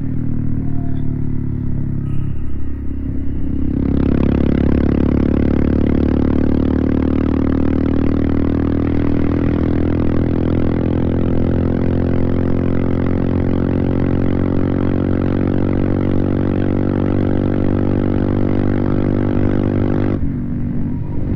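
Royal Enfield Himalayan single-cylinder motorcycle engine heard on the move. It runs lightly at first, then about four seconds in the throttle opens and the engine pulls hard, its pitch rising slowly as the bike accelerates. Shortly before the end the throttle closes and the engine sound drops back.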